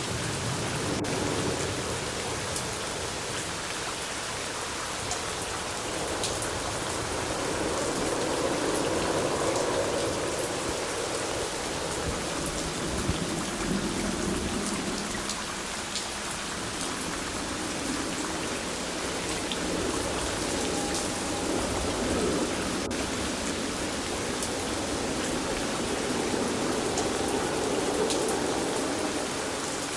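Steady rain falling, with scattered individual drop ticks over a continuous hiss that swells and eases slowly.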